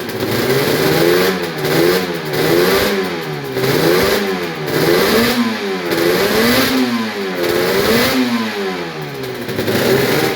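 Suzuki RG500 two-stroke square-four engine being revved in repeated throttle blips, its pitch rising and falling about once a second. It is warming up just after a cold start, the first start of the year after sitting unused.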